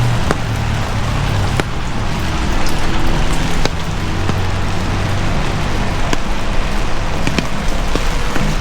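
Heavy rain falling on a city street, a dense steady hiss with scattered sharp drip ticks throughout. A low rumble runs underneath.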